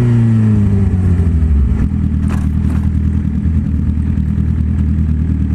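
Motorcycle engine dropping in pitch as the bike slows to a stop, then idling steadily.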